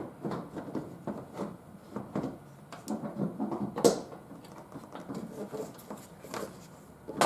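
Plastic headlight housing being pushed and worked into its mounting: irregular knocks and scrapes, a sharp click about four seconds in, and a loud snap near the end as its plastic tang snaps into place.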